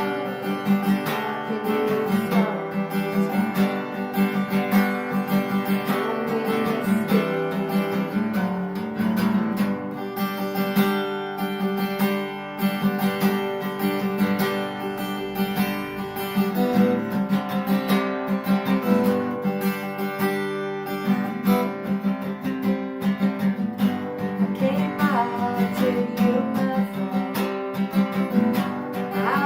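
Acoustic guitar strummed steadily in a rhythmic chord pattern, an instrumental passage of a song.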